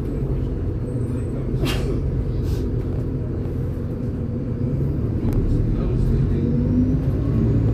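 MAZ-203 city bus heard from inside while driving: steady low engine and road rumble that rises in pitch and gets a little louder from about five seconds in as the bus picks up speed. A few short sharp rattles or clicks, the clearest about two seconds in.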